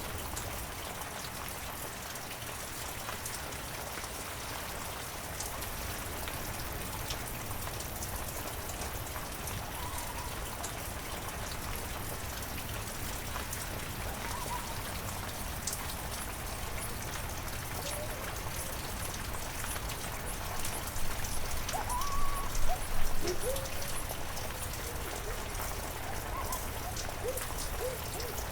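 Heavy rain falling steadily as an even hiss. A few short wavering calls rise and fall over it, most plainly about 21 to 23 seconds in.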